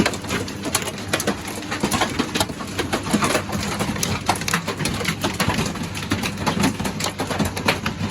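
Hail drumming hard and continuously on a caravan roof, a dense, irregular patter of sharp impacts, very loud.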